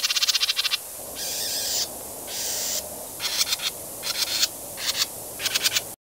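A bird calling in about seven bursts of fast trilled notes, some long and some short, over a steady hiss; it cuts off suddenly at the end.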